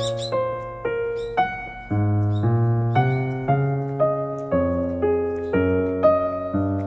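Background piano music: a slow melody of struck notes, each one fading before the next, with bass notes under it. A few faint bird chirps come in near the start.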